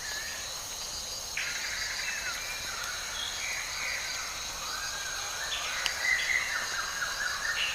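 Rainforest ambience: a steady high-pitched insect drone, with varied chirping calls joining about a second and a half in.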